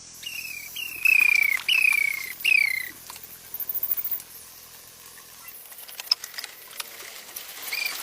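Baby chicks peeping: four loud calls, each sliding down in pitch, in the first three seconds. A quieter run of small clicks and taps follows.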